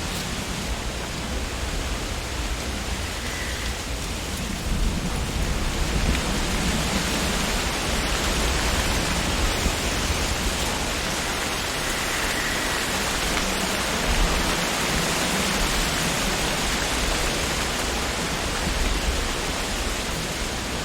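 Wind blowing through tree leaves: a steady rustling hiss that swells in a gust about five seconds in and eases off slightly near the end.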